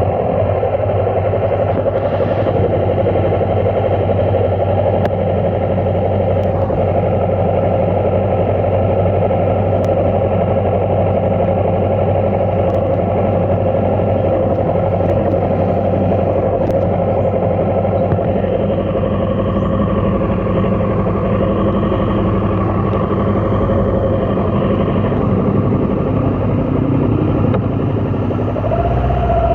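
Motor vehicle driving, its engine humming steadily under road and wind noise; right at the end the engine's pitch rises as it speeds up.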